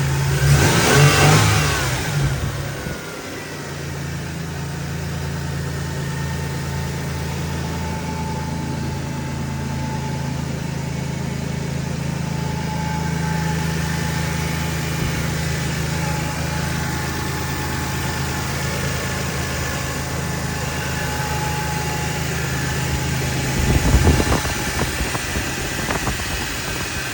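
2000 Toyota Tacoma engine idling steadily and smoothly. There is a brief louder noise in the first couple of seconds and a short thump about 24 seconds in.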